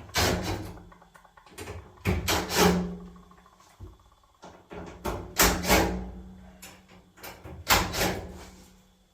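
Dryer's sheet-metal front panel and drum supports being worked loose and lifted: four bouts of clattering and scraping, each fading within a second or so, over a faint steady low hum.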